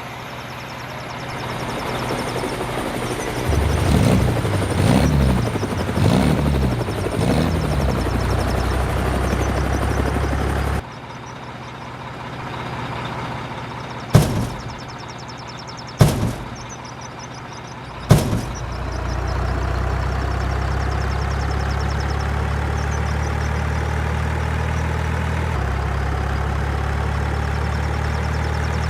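Heavy truck engine running steadily, dropping back about eleven seconds in, then three sharp bangs about two seconds apart before the engine runs steadily again.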